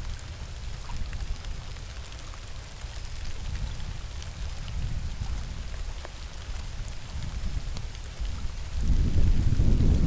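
Rain falling during hurricane weather: an even patter of drops over a steady low rumble. The rumble swells noticeably louder in the last second or so.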